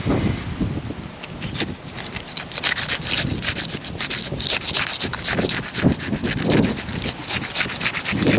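Asphalt roof shingles being pried loose from their sealant strips: a dense run of rapid crackling and scraping as the bond tears away. The chipping and tearing show the shingles are too brittle to unseal without damage.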